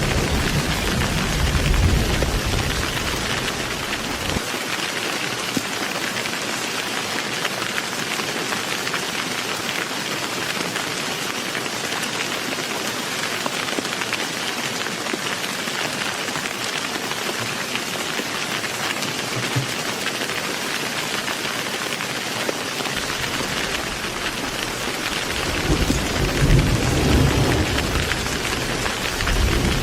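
Heavy rain falling steadily, with a low thunder rumble that dies away about four seconds in and another rumble building near the end.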